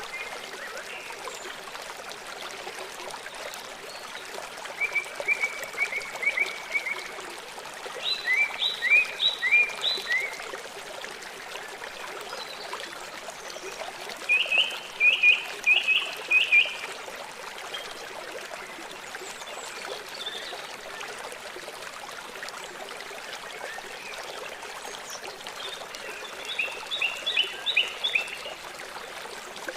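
A small songbird singing short, quick runs of four to six falling notes, four times, over the steady sound of running water.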